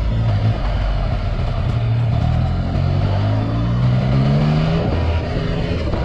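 A 2018 Yamaha XSR900's inline three-cylinder engine with an Akrapovic carbon full exhaust, pulling under acceleration. Its pitch rises steadily for about three seconds, then drops near the end as the throttle eases or the bike shifts.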